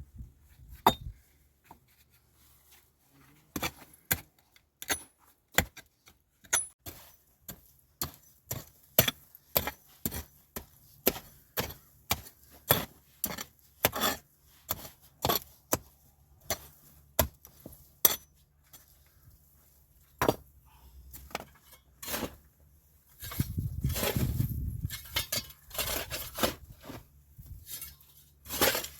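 Repeated sharp chopping strikes, about two a second through the middle, then a few seconds of rustling scrape near the end.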